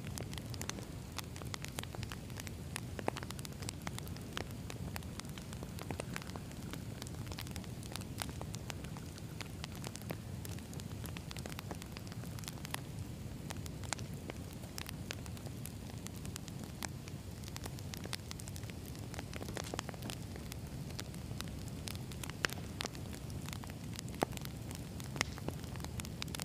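Campfire of burning wood logs: a steady low rumble of flames with frequent irregular crackles and pops.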